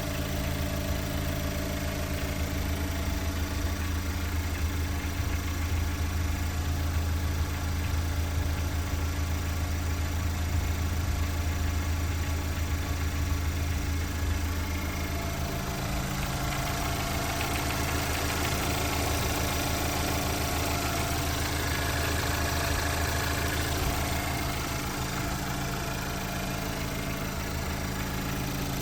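Mahindra XUV700's 2.0-litre turbo-petrol four-cylinder engine idling steadily, its tone shifting slightly about halfway through.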